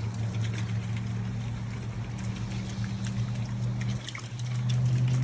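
Water pouring and trickling over crawfish being rinsed, over a steady low motor hum that shifts pitch and grows louder near the end.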